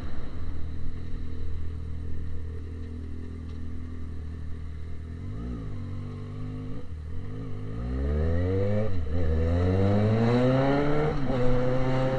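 Yamaha XJ6 inline-four motorcycle engine through an exhaust with only the pipe, no silencer. It runs steadily at low revs, gives two short throttle blips, then pulls away, the revs rising and dropping twice as it shifts up.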